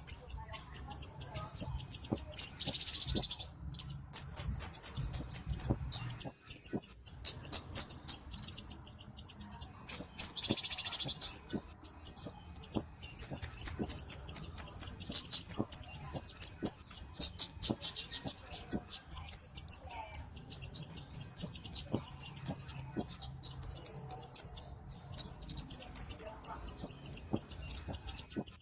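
Kemade cabe-cabean (flowerpecker) singing: long runs of rapid, very high, thin chirps, about ten a second, broken by short pauses.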